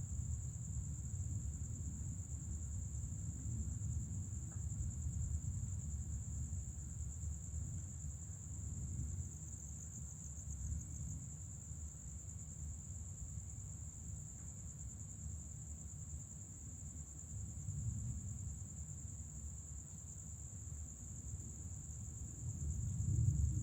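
Night insect chorus: a steady high-pitched trill throughout, over the low rolling rumble of distant thunder that swells again near the end.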